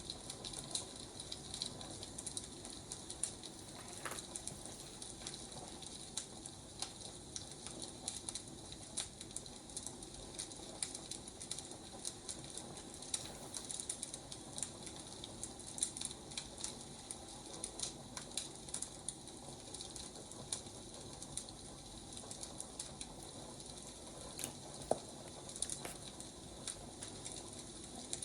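Wood fire crackling: irregular sharp pops and snaps over a steady soft hiss, with one louder pop near the end.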